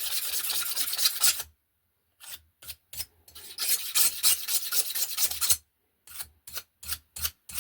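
Rapid back-and-forth hand scrubbing strokes cleaning a surface of the aluminium heat exchanger, in spells broken by two short pauses and ending in slower separate strokes, a few a second.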